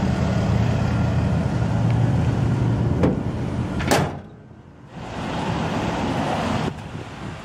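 A 1998 Chevrolet Silverado 3500's 7.4-litre Vortec V8 idles with a steady low hum. Two sharp knocks come about three and four seconds in. The hum then drops out suddenly for about a second before a rushing noise returns.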